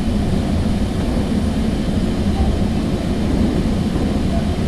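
Steady low rumble of a commuter train coach in motion, heard from inside the car: wheels running on the rails.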